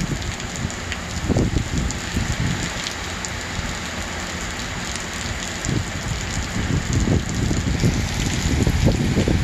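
Heavy summer rain falling steadily on a grassy yard, an even hiss, with low irregular rumbling that grows stronger near the end.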